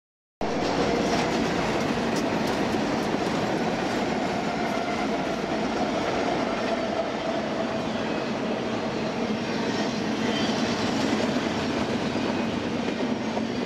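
BNSF freight train passing close by: several diesel locomotives run past, followed by double-stack container well cars rolling along the rails, with wheels clicking over the rail joints. The sound sets in suddenly about half a second in and stays steady.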